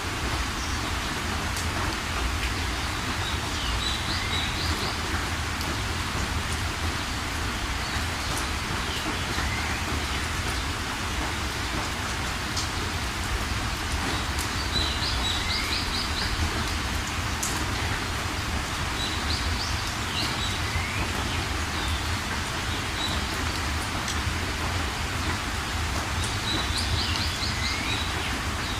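Steady rain, with a songbird calling every few seconds: a short rising note and a quick run of four or five higher notes.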